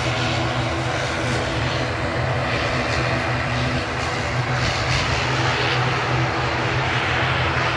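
Aircraft engines running steadily: a continuous low drone with steady tones in it, under a broad rushing noise.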